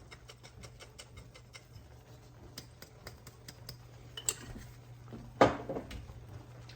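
Ground ginger being shaken out of a spice container over a bowl, a quick run of light, even clicks, about seven a second. A louder clunk about five and a half seconds in, as a container is set down on the counter.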